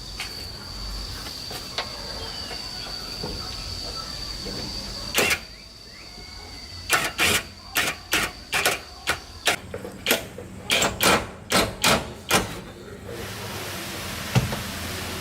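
A steady high whine, then a single sharp knock about five seconds in, and after a short pause a run of about a dozen sharp knocks at roughly two a second, uneven in spacing, from work on a car.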